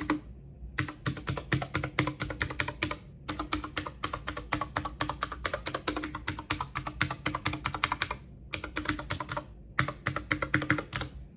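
Typing on a computer keyboard: quick runs of key clicks, broken by a few short pauses.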